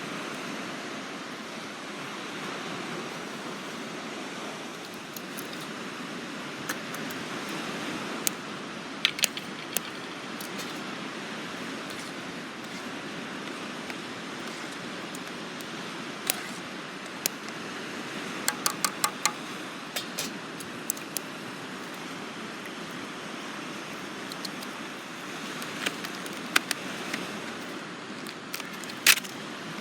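Steady wash of surf and wind on a beach, with scattered sharp clicks and a brief run of metallic clinks about two-thirds of the way through.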